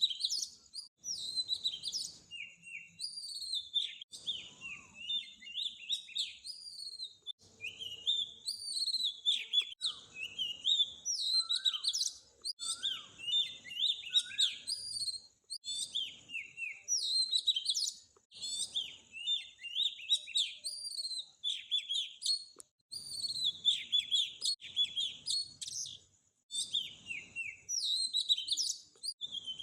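A chorus of small songbirds chirping and twittering, with quick high chirps and short trills overlapping without pause.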